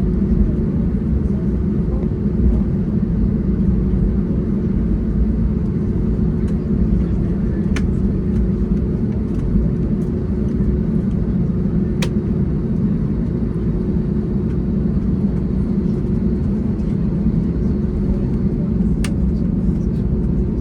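Steady low rumble inside the cabin of an Airbus A321neo as it taxis before take-off, with its engines at low thrust and a steady hum running through it. A few faint short clicks come through the rumble.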